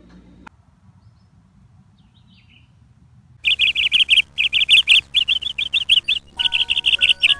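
Bird chirping in loud, rapid trills of quick repeated notes, starting suddenly about halfway through after a quiet stretch. Near the end, soft held musical notes come in under the chirps.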